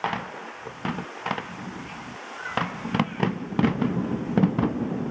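Aerial fireworks shells bursting in a series of sharp bangs, a few spaced out at first, then coming thick and fast from about two and a half seconds in.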